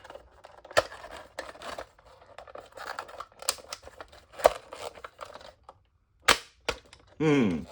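Hard plastic toy train parts being flipped, pushed and snapped into place as the car is transformed into a robot leg: a run of small clicks and clacks, with sharper snaps about a second in, around four and a half seconds, and just after six seconds.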